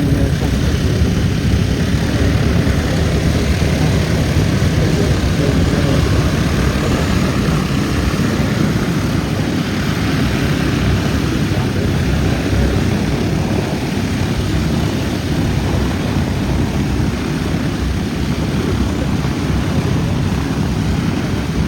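B-17 Flying Fortress 'Sally B' with its four Wright Cyclone radial engines running, a steady loud propeller-aircraft drone.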